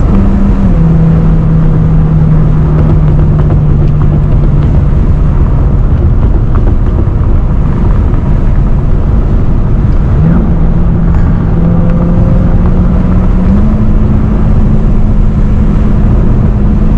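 BMW E92 M3's V8 with an Akrapovič exhaust, heard from inside the cabin while driving: a steady engine drone that drops in pitch at a gear change about a second in, then climbs again in two steps in the second half. Road and wind noise run underneath.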